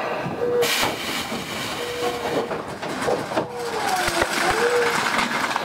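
Tobu 20000-series commuter train heard from inside the car, rattling and knocking as it slows into a station. Several short squeals slide up and down in pitch from the wheels and brakes in the second half.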